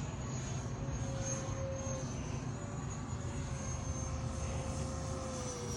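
Freewing Eurofighter Typhoon RC jet's electric ducted fans whining in flight: a steady high whine whose pitch drifts slightly, over a low rumble.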